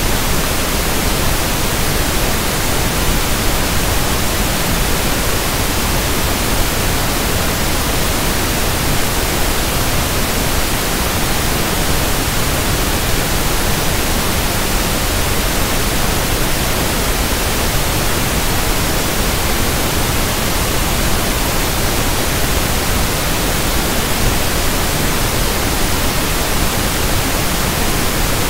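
Steady synthetic pink noise (1/f noise): an even, unchanging hiss spread across the whole range of pitch.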